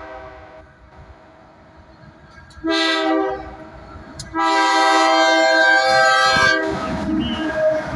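Locomotive air horn on the lead Kansas City Southern unit of a freight train, sounding several notes together. A blast ends right at the start, a short blast comes about two and a half seconds in, and a long blast follows about four and a half seconds in. The long blast gives way to the rumble of the train passing.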